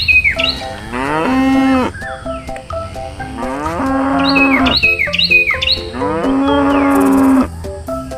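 Cow mooing three times, each a long drawn-out call, with short repeated chirping notes between the calls.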